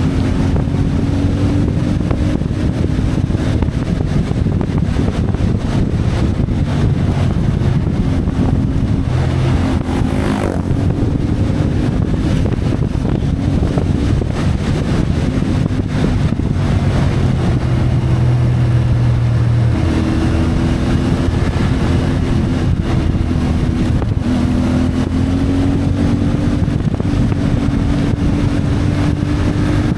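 CFMoto 450MT's parallel-twin engine running while the motorcycle is ridden. The engine note steps up and down every few seconds with throttle and gear changes, over steady low road and wind rumble.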